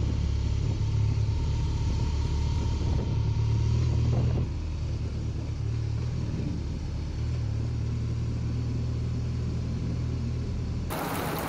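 Motorcycle engine running on the move, a steady low rumble that steps down a little about four seconds in and cuts off abruptly near the end.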